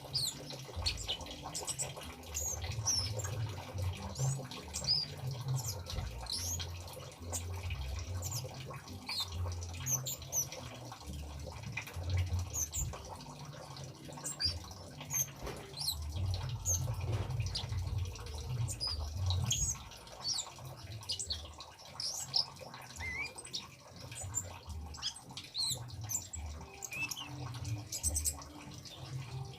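Kemade birds calling in many short, high, quick chirps one after another, over a low rumble and a faint trickle of running water.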